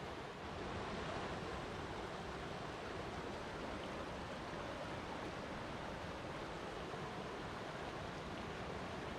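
Flowing water, a steady, unchanging rush.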